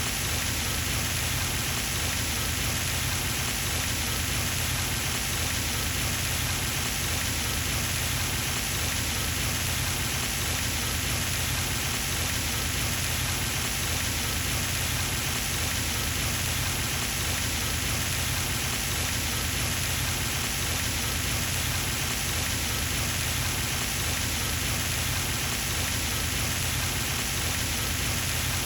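Pond fountain's spray falling back onto the water, a steady, even splashing.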